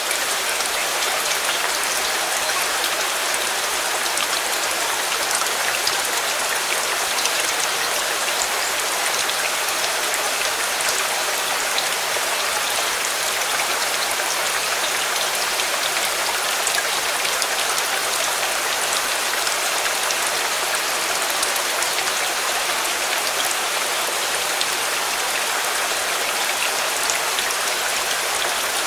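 Steady rain falling: an even, constant hiss with scattered faint ticks of individual drops.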